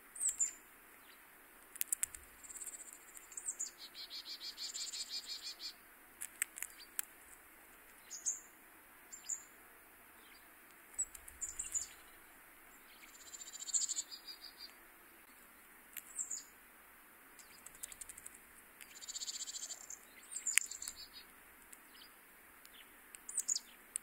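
Small birds calling: short high-pitched chirps every second or two, with three longer rapid trilling runs, and a few sharp clicks in between.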